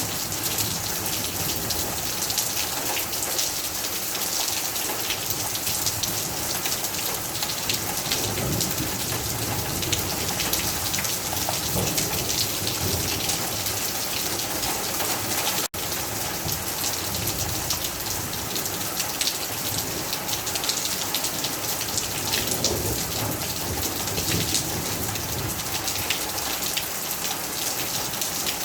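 Heavy rain falling steadily, with a dense patter of individual drops. The sound cuts out for an instant about halfway through.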